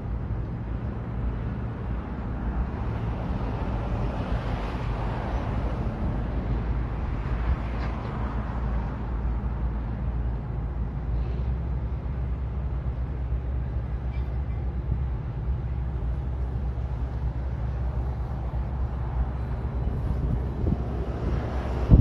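Heavy machinery engines running at a steady low drone, with a rougher noisy rush rising and falling over the first half.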